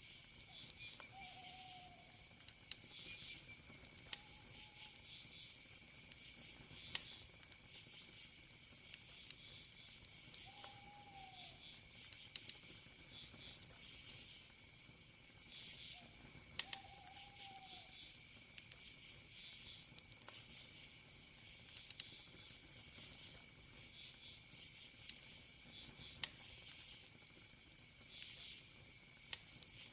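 Campfire crackling, with scattered sharp pops, over a steady high trill of insects and pulsing cricket chirps. A few faint short calls come in, around one, four, ten and sixteen seconds.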